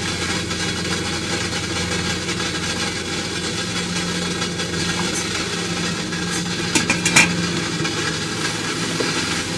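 A steady mechanical hum like an engine running, with a few short clicks about seven seconds in.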